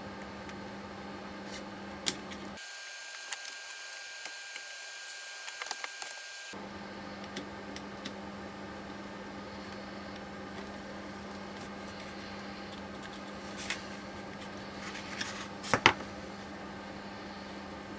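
Scattered light clicks and taps of hand tools and steering rack parts being handled, over a steady low hum. The hum drops out for a few seconds early on, and the sharpest clicks come near the end.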